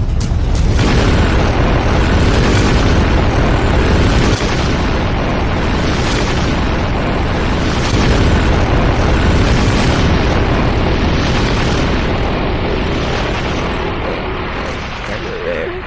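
Long, loud rumbling roar of an explosion-like sound effect in a cartoon. It starts suddenly, holds steady for many seconds and slowly dies away near the end.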